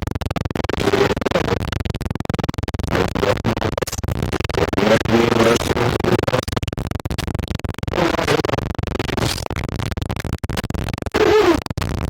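Choppy, stuttering audio: fragments of a voice and music broken up by rapid cut-outs and crackle, like a broadcast breaking up.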